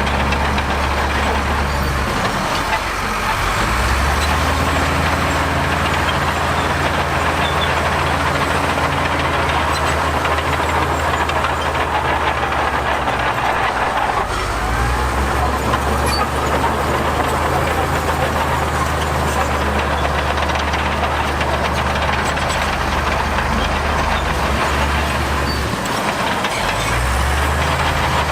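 Heavy diesel construction machinery engines running steadily, the low engine note shifting down and back up a few times as the load or throttle changes.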